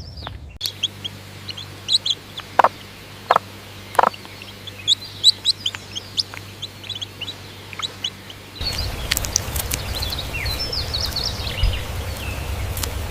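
Birds chirping in many short high notes, with three sharp knocks about a second apart early on. About two-thirds of the way through the background noise changes abruptly and the chirping continues.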